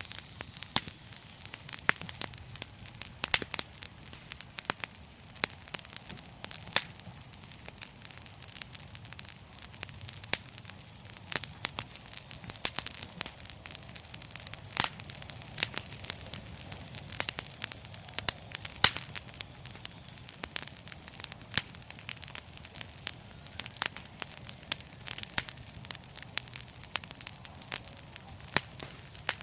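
Wood fire in a fireplace crackling, with many sharp irregular pops and snaps over a steady low hiss.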